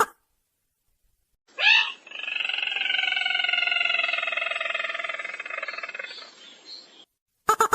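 Lure recording of a sintar merah bird call: a short sharp rising note, then one long rattling, buzzy call of about five seconds that slowly drops in pitch and fades out.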